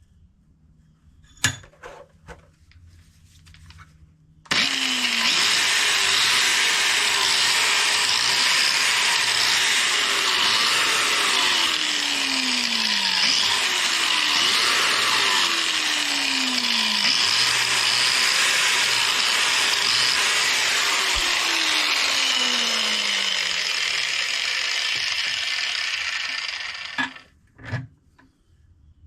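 A power-driven wire wheel scrubbing bare metal on a torque converter, cleaning the mounting surfaces to prepare them for welding. It starts suddenly a few seconds in and runs steadily for about twenty seconds, its pitch dropping several times, then stops. Two sharp knocks come before it.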